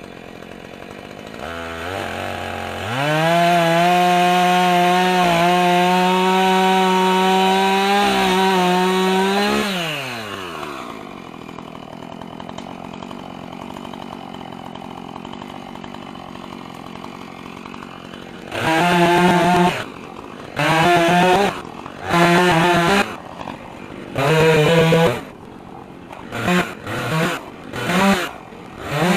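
Two-stroke gas chainsaw revved up to full throttle and held steady for about seven seconds, then dropping back to a low idle. Near the end it is blipped repeatedly: several short revs of about a second each, then quicker ones.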